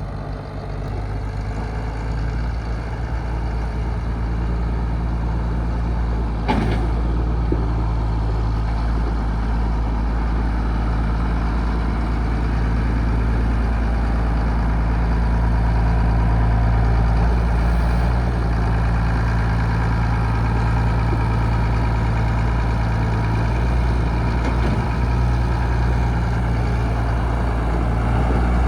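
John Deere 4350 tractor's six-cylinder diesel engine running steadily at low speed, with a single sharp click about six seconds in.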